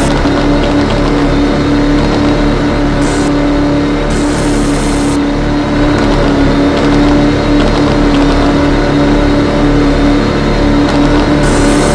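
Car engine running loudly at a steady speed, its drone holding one pitch throughout.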